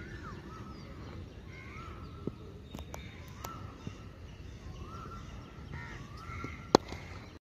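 Birds calling repeatedly outdoors, each call a short arching note, with a few sharp knocks and one loud crack near the end.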